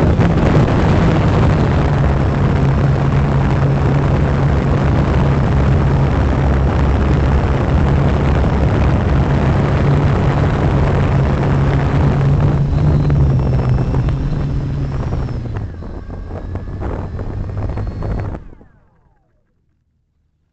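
Small drone's electric motors and propellers running with a loud rushing noise and steady hum. The hum drops about three-quarters of the way through, then the rotors spin down with a falling whine and stop near the end.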